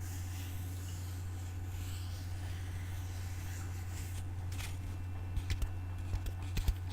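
Light ASMR taps and clicks, a few at first from about four seconds in, then more often toward the end, over soft faint scratching and a steady low electrical hum.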